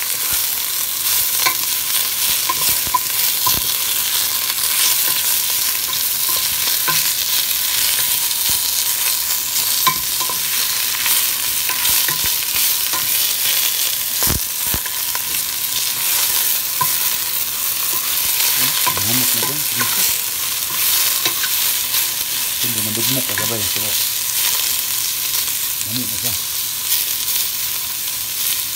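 Sliced chorizo and onions sizzling in oil in a pot, a steady frying hiss, while a wooden spatula stirs them, with scattered clicks and scrapes of the spatula against the pot.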